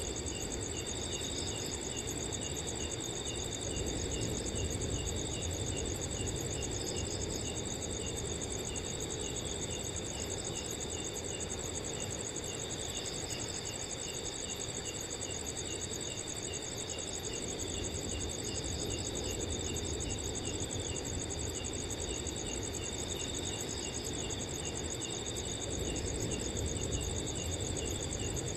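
Several crickets calling together: a steady high trill, a row of short chirps a few times a second, and occasional brief bursts. Under them runs a low, even wind rush.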